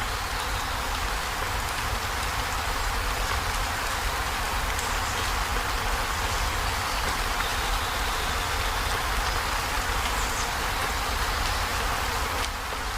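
Heavy rain falling steadily on a corrugated zinc roof: a dense, even hiss of drops on the metal sheeting, with a low rumble underneath.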